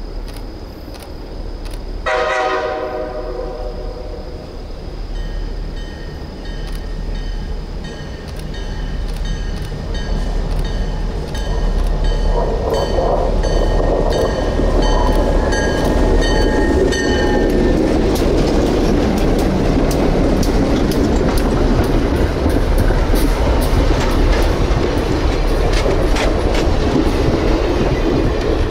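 A train passing. It opens with a short horn blast, then a bell rings rhythmically for about twelve seconds as the train approaches. The train then rolls by with its wheels clicking over the rail joints.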